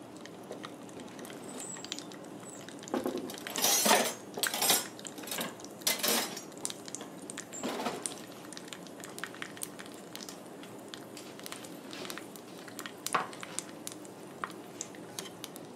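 Pork rind pellets frying in a small saucepan of hot oil: a steady sizzle with scattered sharp pops and crackles as the pellets puff up, thickest between about three and eight seconds in and once more near the end.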